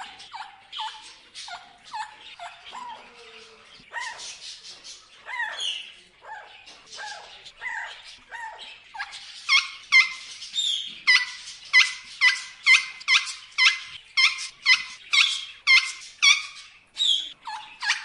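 A bird calling over and over in short notes, each dropping in pitch. The calls come unevenly at first. From about halfway through they turn louder and regular, about two or three a second.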